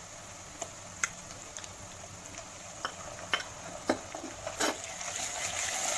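A spoon stirring and scraping in a pan, with several sharp metal clicks, over a steady sizzle of onions frying in sesame oil as ginger-garlic paste is stirred in. The sizzle grows louder near the end.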